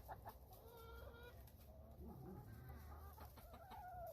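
Faint soft calls from hens: a couple of drawn-out, wavering notes, one about a second in and a longer one in the second half.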